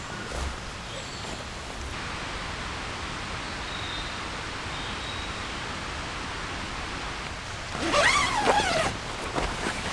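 Steady rain hiss. Near the end comes a brief, louder call with several falling pitched strands.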